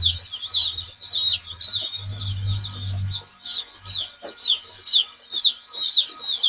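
Many young chicks peeping together: a dense chorus of short, high, downward-sliding peeps, several a second and overlapping. A low hum sounds under them for the first half and stops a little past three seconds in.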